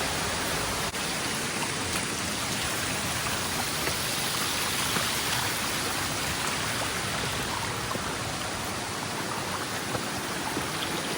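Mountain stream rushing steadily, a constant hiss of running water.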